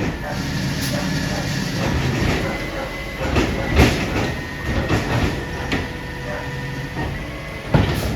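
Mack LR garbage truck with a Labrie Automizer side-loader body running at a steady rumble, with a string of irregular metal clanks and knocks from the automated arm and hopper as recycling is handled. The sharpest clanks come just before the middle and near the end.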